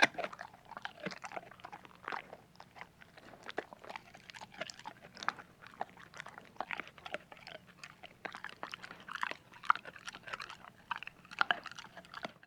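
Chewing and crunching: a quick, irregular run of short crunchy clicks, with a few louder bites near the end.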